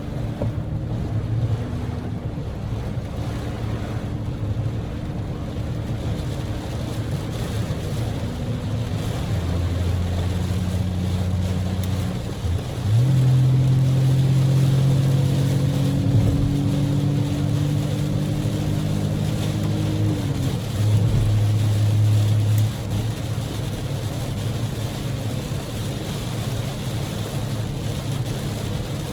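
A Daihatsu Move kei car (L150S, EF-VE 660 cc three-cylinder engine) driving in heavy typhoon rain. A low engine and drivetrain hum shifts in pitch and grows louder for several seconds in the middle, over a steady hiss of rain and road noise.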